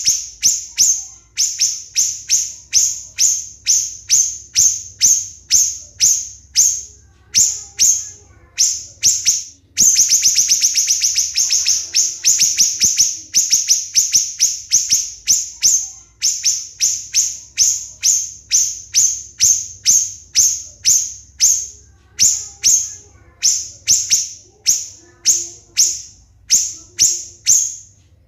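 A siri-siri songbird repeating sharp, high-pitched notes that each sweep downward, about two to three a second, with a fast, dense run of notes about ten seconds in. These are the close-set 'shots' (tembakan rapat) prized in masteran recordings for training competition songbirds.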